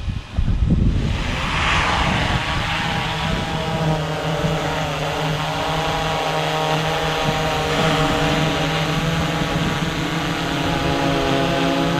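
DJI Mavic 3 Classic quadcopter's motors and propellers spinning up about a second in, then a steady buzz of several pitches at once that wavers slightly.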